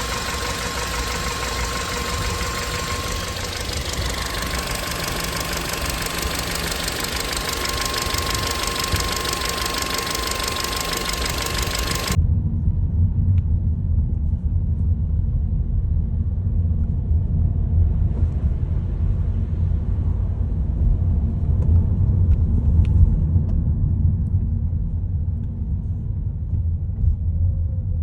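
Skoda Octavia A7 1.8 running with a steady whining howl of two pitched tones over mechanical noise. About twelve seconds in, the sound cuts abruptly to a deep rumble only. This is the howl and knock the owner is complaining about.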